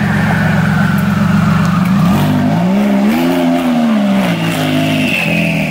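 Porsche 996-generation 911 Turbo-style twin-turbo flat-six rolling past at low revs. About two seconds in a light throttle blip lifts the engine note, which falls back by about four seconds in and then settles to a steady low rumble.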